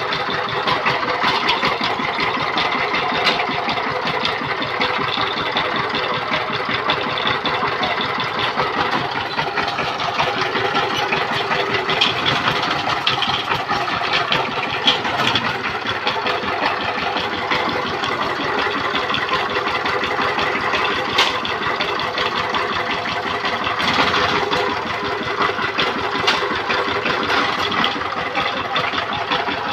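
Power tiller diesel engine running steadily, with a fast even firing rhythm and a few sharp rattling clicks.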